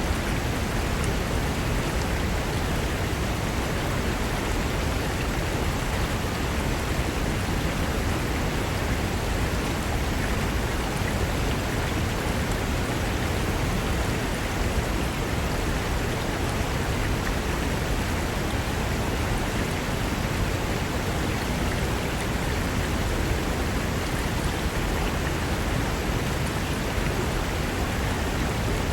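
Fast mountain river rushing over rocks: a steady, even roar of water.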